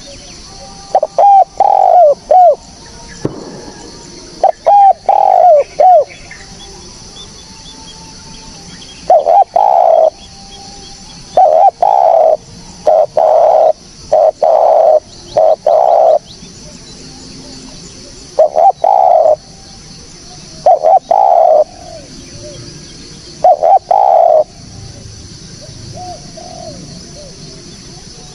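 Spotted dove (tekukur) cooing: short phrases of a few deep coos, repeated with pauses of a second or several between them. A steady faint high hiss runs behind the calls.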